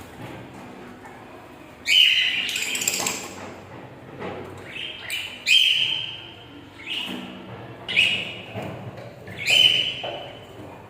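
Pet budgerigars and cockatiels calling: a series of loud, harsh calls every second or two, with quieter chirping between them.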